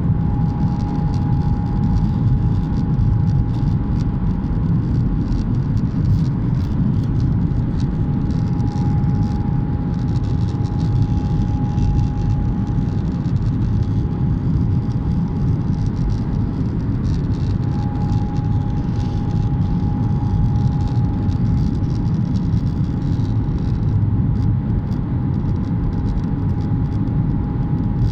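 Airliner cabin noise: a steady low rumble of engines and airflow with a thin, steady whine over it.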